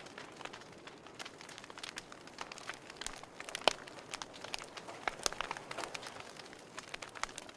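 Wood fire burning in a fireplace, crackling: irregular sharp pops and snaps over a soft steady hiss, one louder pop about halfway through.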